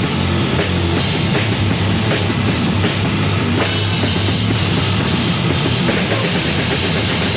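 Heavy metal band demo recording, drum kit driving a fast, dense instrumental passage with a steady stream of drum hits.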